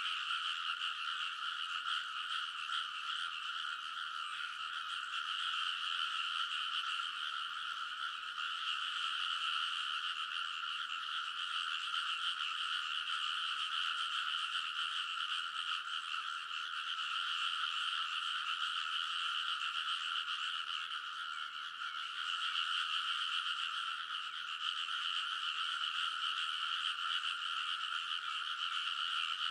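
A dense chorus of many rice-paddy frogs calling at once, their overlapping croaks merging into one steady sound.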